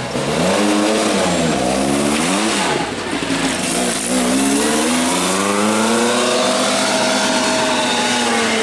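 Lancia Rally 037's supercharged four-cylinder engine revving: two quick rises and falls in pitch, then one longer climb that holds high near the end.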